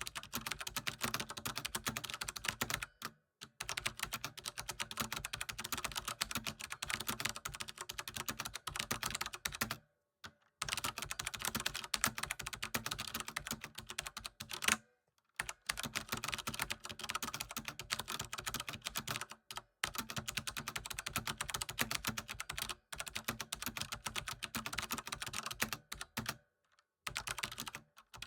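Continuous fast typing on a computer keyboard, a dense run of key clicks broken by several short pauses of under a second.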